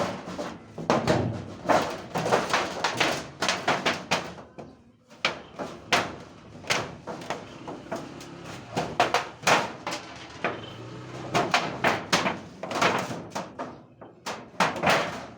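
Irregular knocks and bangs, many in quick succession, some ringing briefly, with short pauses between clusters.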